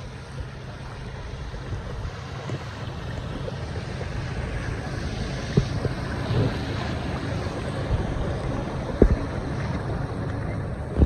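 Steady rush of floodwater draining into a cleared storm drain, with a few sharp knocks.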